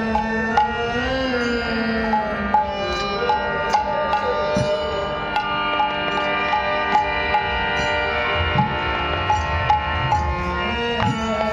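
Kirtan instrumental music: sustained harmonium-like chords under a gliding melody line, with a hand drum and small cymbal strokes keeping a regular beat.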